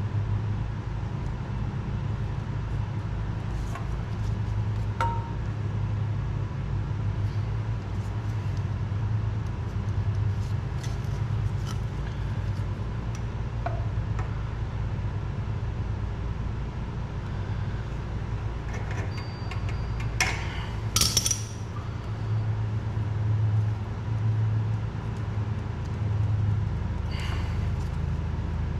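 Scattered metal clinks and small handling noises of hand tools and parts being worked on a motorcycle fuel valve, with a louder burst of clinking and rattling about two-thirds of the way through. A steady low hum runs underneath.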